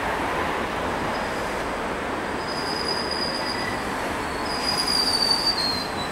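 Keisei 3500-series electric commuter train rolling into a station as it slows to stop, a steady rumble of wheels on rails with a high-pitched squeal that starts about a second in and grows loudest near the end.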